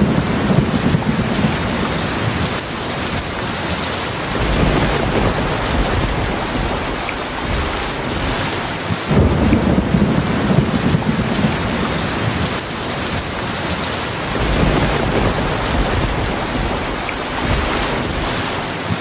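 Heavy rain falling steadily, with low rolling thunder that swells up under it several times, about every five seconds.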